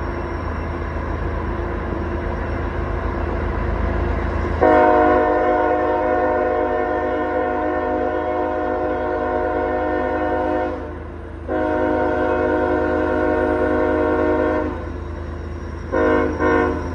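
Diesel locomotive of a CSX coal train approaching with a steady low engine rumble, then sounding its multi-tone air horn: two long blasts and a short one, the opening of the grade-crossing signal.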